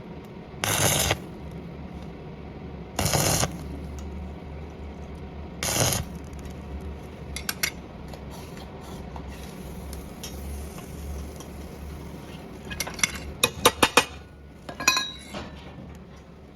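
Small metal pieces clinking and knocking together, with a quick run of sharp clicks and a ringing clink near the end. Earlier, three short bursts of hiss about two and a half seconds apart are the loudest sounds.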